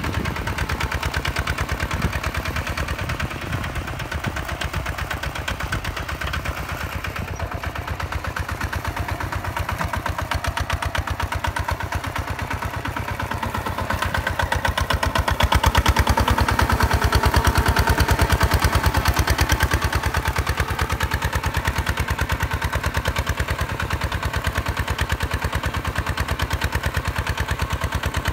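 Single-cylinder 155 DI diesel engine of a paddy-field tractor running with a rapid, even firing beat. It gets louder for a few seconds about halfway through.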